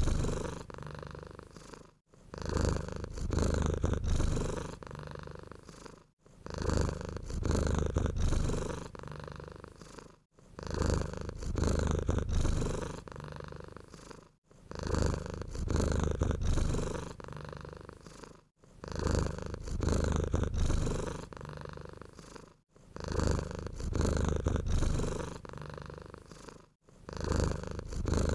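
Domestic cat purring in a steady rhythm. Each cycle lasts about four seconds, a louder stretch followed by a softer one, and the same purr repeats with a brief gap between cycles.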